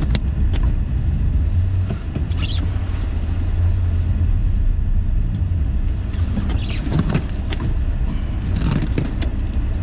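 A car driving in a blizzard, heard from inside the cabin: a steady low rumble of engine and tyres on the road, with a few short swishing or scraping noises now and then.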